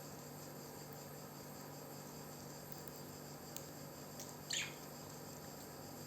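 Faint steady chirring of crickets, with one short, sharp high chirp from the pet parrot about four and a half seconds in, just after two faint clicks.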